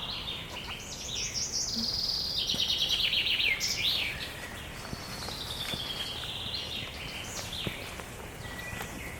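A songbird singing: a long phrase of fast trilled notes stepping down in pitch that ends in a flourish about four seconds in, then a second, quieter phrase, over a steady low background hiss.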